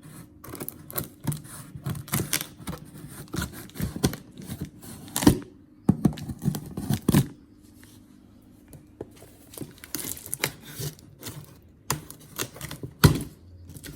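Cardboard packaging being torn open and handled: tape and cardboard ripping, with scraping and crinkling in irregular bursts. The sharpest rips come about five seconds in, again a second or two later, and near the end.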